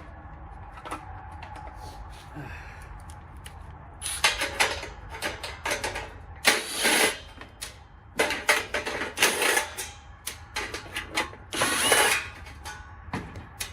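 Power drill/driver running in short bursts, several times over, backing out the screws that hold the dryer's heating element in place.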